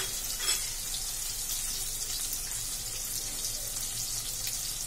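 Tomatoes and green chillies frying in hot oil in a steel kadai: a steady sizzle with fine crackles, and a light click or two in the first half-second.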